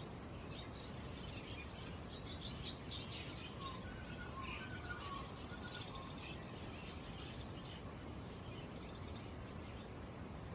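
Steady high-pitched insect chirring, with small caged birds chirping and twittering in short phrases through the middle few seconds.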